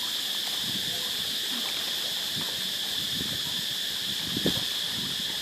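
Steady high insect chorus, like crickets, with a few soft low knocks or splashes scattered through it, one louder about four and a half seconds in.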